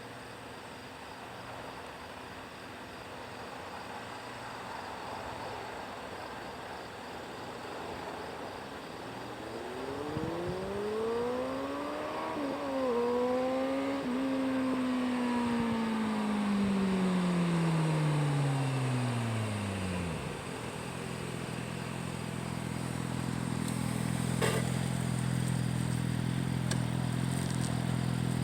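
Kawasaki Concours 1400's inline-four running through an unbaffled Blueflame EVO3 exhaust. It rises in pitch with two brief dips, then winds down steadily over several seconds and settles into a steady, deep idle. There is one sharp click during the idle.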